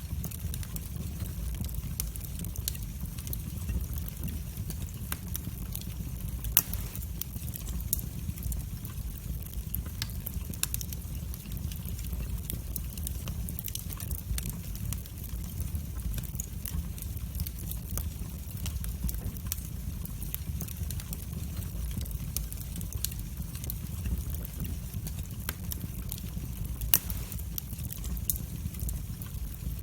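Wood fire burning in a fireplace: a steady low rumble of the flames with frequent sharp crackles and pops from the burning logs, two pops standing out, one about six seconds in and one near the end.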